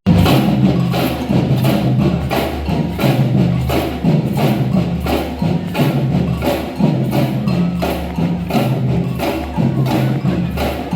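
Samba band playing a steady, driving rhythm: bright percussion strikes on the beat over sustained low notes.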